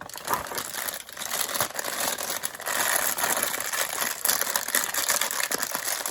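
Plastic packaging crinkling and rustling, with small clicks of plastic parts being handled. It is denser and louder from about a second and a half in.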